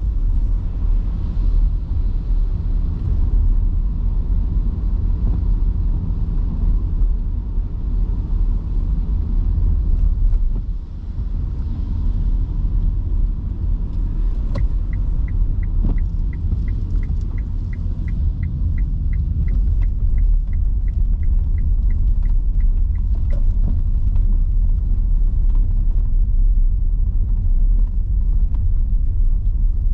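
Steady low tyre and road rumble heard inside a car cabin while driving on wet roads, with a faint hiss of rain and spray. From about halfway through, the turn-signal indicator ticks about twice a second for several seconds, then stops.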